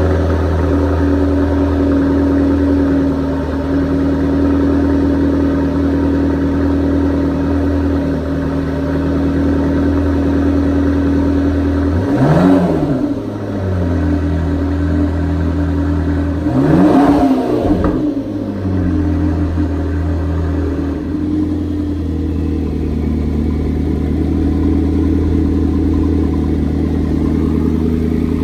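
McLaren MP4-12C's twin-turbo V8 idling steadily through the OEM sport exhaust, with two quick throttle blips about twelve and seventeen seconds in, the pitch rising and falling each time.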